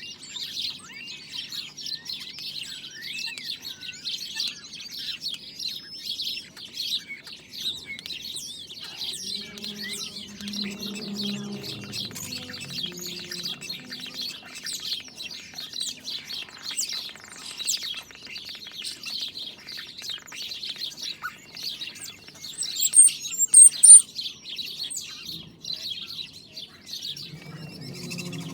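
Dense, unbroken chatter of a large number of birds chirping at once, with a few louder, sharper high chirps about 23 seconds in. A faint low rumble comes in around ten seconds and again near the end.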